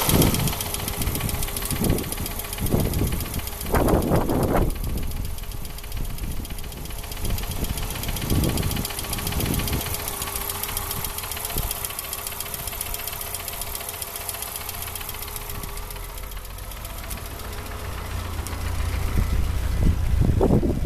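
Hyundai 2-litre 8-valve four-cylinder engine idling unevenly, with a fast metallic ticking from a worn hydraulic valve lifter and irregular louder surges in the first half. The rough idle is from misfiring: the cylinder-one high-tension lead is shorting to ground.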